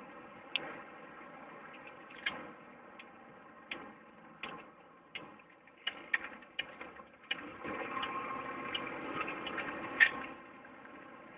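The 1996 Lincoln Town Car limo's 4.6 V8, heard from inside the cabin, running faintly while cruising, with irregular clicks and knocks over it. The engine note rises about eight seconds in, and the loudest knock comes about ten seconds in.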